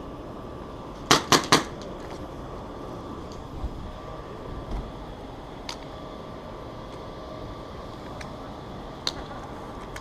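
Airsoft gun firing three quick shots about a second in, with a couple of single sharp pops later, over a steady hum.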